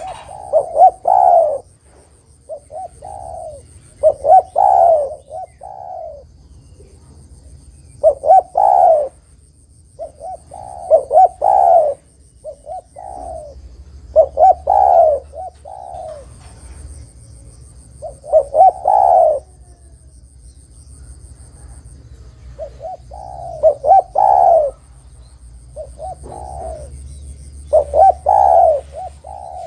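Spotted dove (tekukur) cooing, repeating its short phrase of several notes every two to four seconds.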